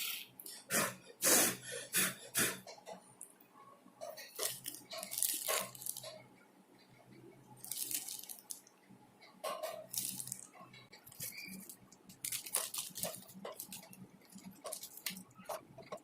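Water splashing and dripping in irregular bursts, over a faint low steady hum.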